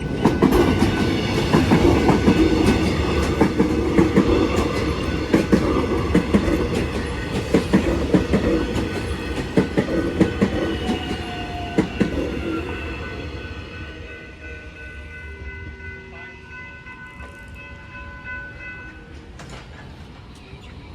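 Train passing over the level crossing, its wheels clattering rapidly over the rail joints and crossing, then fading away after about twelve seconds as it pulls off. A few steady whining tones linger as the clatter dies down.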